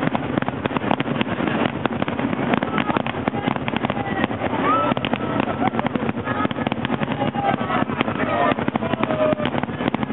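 Fireworks display going off continuously: a dense, fast run of pops and crackles with no break, mixed with short whistling glides.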